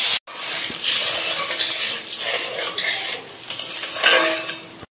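Mustard-chilli paste and a splash of water sizzling in a hot metal kadai while a spoon stirs and scrapes against the pan, with a brief drop-out just after the start.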